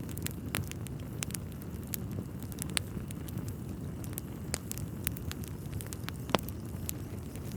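Wood fire crackling in a fireplace: burning logs giving off irregular sharp pops and snaps over a steady low rumble of flame, with one louder pop about six seconds in.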